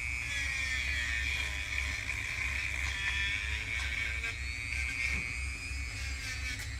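High-speed rotary tool with a small sanding drum grinding on the aluminium case of a Honda transmission: a steady high whine whose pitch wavers and dips as the drum bears on the metal. It is coarse sanding of pitted spots ahead of polishing.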